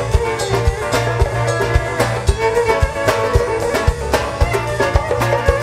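Instrumental passage of a live band playing folk-style music, with a steady kick-drum beat under plucked strings and a violin.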